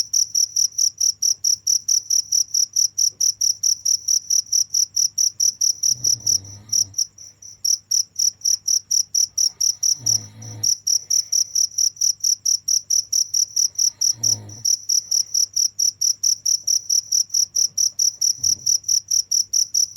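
Cricket chirping in an even, high-pitched pulse, about four to five chirps a second, with a brief gap about seven seconds in. A short low rumble comes underneath every four seconds or so.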